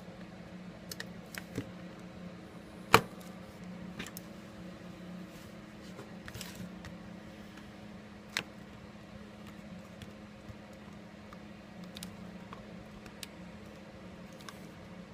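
Scattered light clicks and taps of small hand tools and parts handled on a workbench during phone repair, with one sharp click about three seconds in and another near eight seconds, over a steady low hum.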